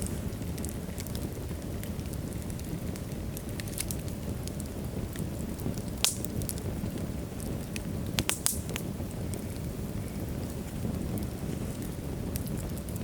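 Wood logs burning in a fireplace: a steady low rumble of flames with scattered sharp crackles and pops. The loudest pop comes about six seconds in, and a quick cluster of pops follows about two seconds later.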